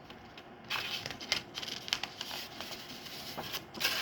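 Paper rustling and crackling as the incubator's instruction booklet is handled and its pages turned, in a string of irregular rustles beginning under a second in, the loudest near the end.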